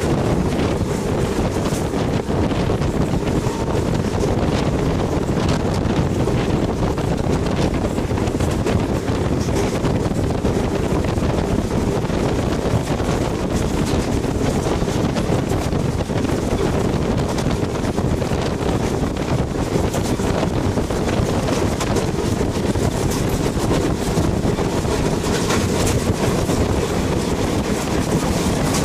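Moving train's steady low rumble with wind buffeting the microphone, and faint scattered clicks throughout.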